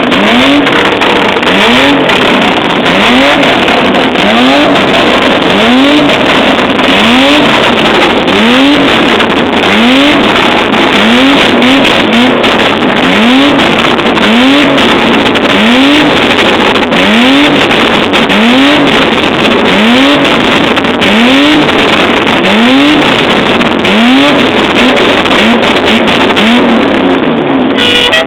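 V8 engine of a van being revved hard over and over, about one throttle blip a second, each a quick rise and fall in pitch. Sharp pops and crackles from the exhaust run through the revving as it spits flames. The sound cuts off abruptly near the end.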